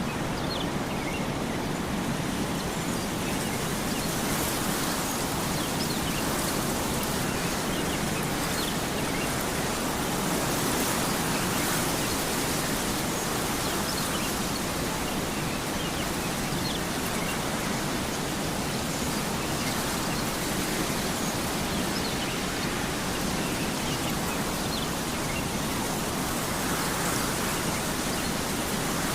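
Steady, even rushing white noise like wind, holding at a constant level throughout.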